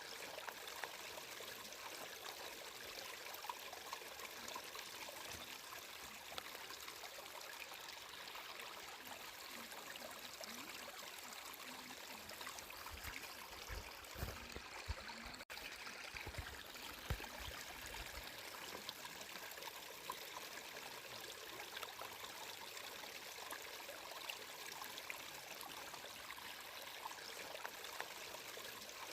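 Water of a stream flowing and trickling steadily, with small irregular splashes. A low rumble rises under it for a few seconds around the middle.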